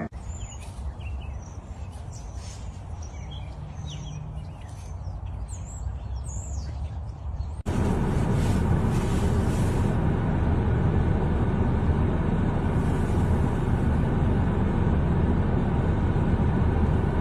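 Outdoor ambience of small birds chirping over a low background rumble, cut off suddenly after about seven seconds by a louder steady rumbling noise.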